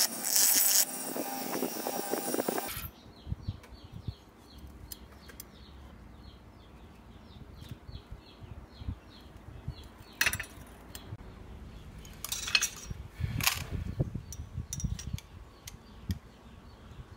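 Small steel parts clinking and tapping against each other now and then, a few strikes louder than the rest, with birds chirping faintly behind. A loud, dense sound fills the first three seconds and cuts off suddenly.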